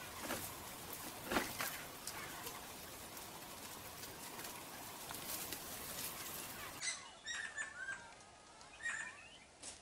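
Forest ambience: a steady hiss with a few sharp clicks. About seven seconds in it gives way to a quieter stretch of short bird chirps and whistles, several in a row.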